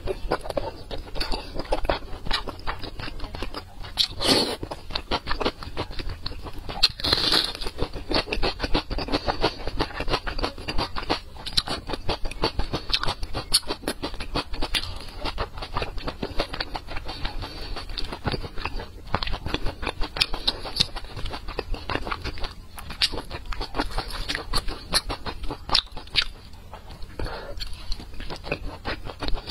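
Close-miked chewing and biting of glazed braised pork belly: a continuous run of small clicking, smacking mouth noises.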